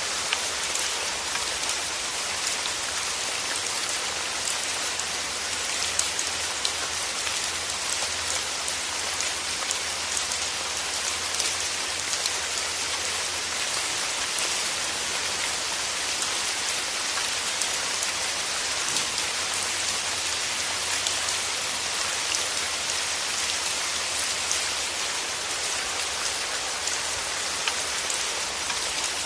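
Steady rain falling, an even hiss of many fine drops with scattered small drip ticks.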